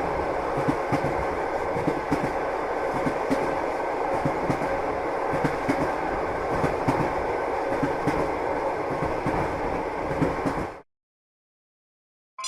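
Train running along the track: a steady noise with many irregular clacks from the wheels on the rails. It cuts off suddenly near the end, leaving silence.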